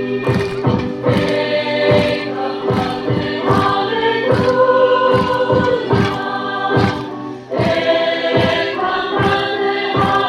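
Choir singing, several voices holding long notes, over a steady drum beat.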